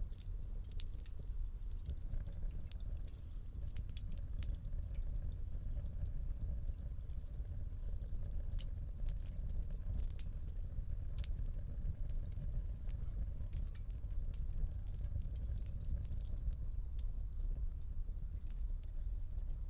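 Wood fire crackling in a fireplace: frequent irregular pops and snaps over the low, steady rumble of the burning flames.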